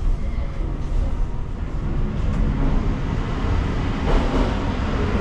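Saphir Odoriko electric train running, a steady low rumble with a brief louder rush about four seconds in.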